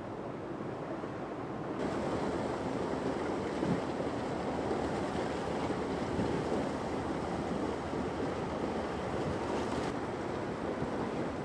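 Broken harbor ice grinding and crackling as a ship and tug push through it, a dense steady crackle that grows louder about two seconds in.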